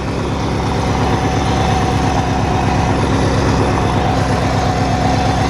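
Hechinger (MTD) riding lawn tractor's engine running steadily as it drives in high range, held at the most throttle it will take, with an even beat and a steady whine above it.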